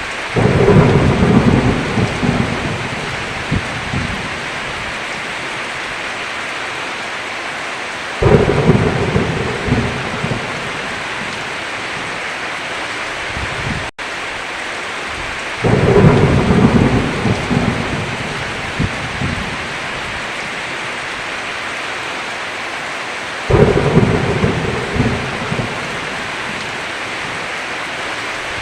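Heavy rain falling steadily, with four rolls of thunder about every seven or eight seconds, each a loud rumble that fades out over a few seconds.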